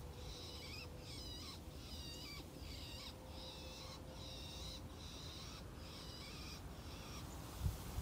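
A bird calling a steady series of short, high, wavy notes, about one and a half calls a second, with a couple of low thumps near the end.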